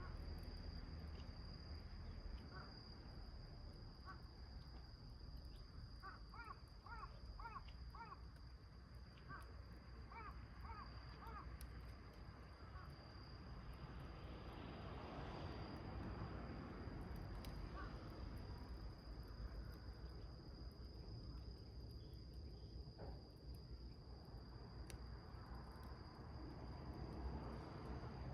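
Small wood fire in a steel can crackling faintly, with scattered soft pops. A bird calls in two short runs of quick repeated notes near the middle, over a steady high whine.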